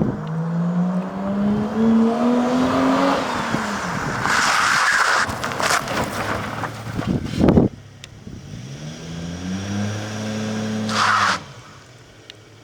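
Naturally aspirated Toyota 1JZ-GE inline-six in a GAZ-3102 Volga, breathing through a Remus exhaust, accelerating: the engine note climbs for about three seconds, then drops away. A rushing, gusty noise follows, then a second pull about eight seconds in climbs, holds steady and cuts off shortly before the end.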